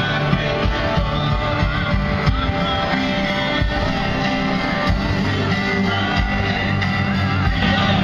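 Live worship music: amplified band with guitar and singing, with a steady beat.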